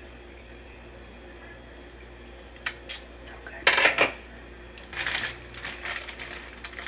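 Kitchen utensils clinking and scraping against dishes while food is portioned out. There are a couple of light clicks about two and a half seconds in, a louder clatter near four seconds, and more scraping soon after.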